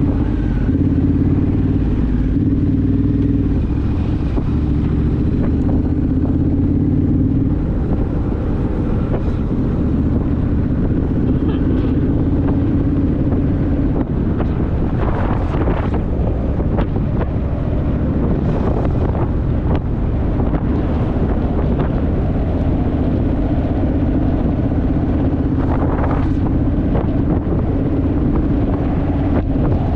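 Honda Rebel motorcycle's parallel-twin engine running at a steady cruise, its pitch shifting slightly now and then, with wind buffeting the microphone.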